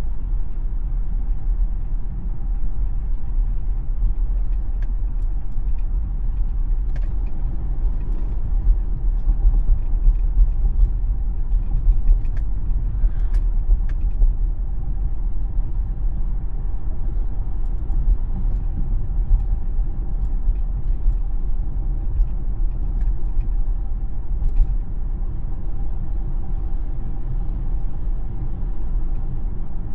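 A Tesla electric car driving on Full Self-Driving: steady low road and tyre rumble with a faint even hum over it, and no engine note.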